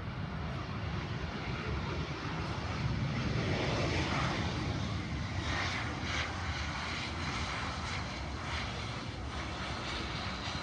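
Aircraft engine noise from an airplane near the airport, a steady rumble and roar that swells to its loudest about four seconds in and then eases off a little.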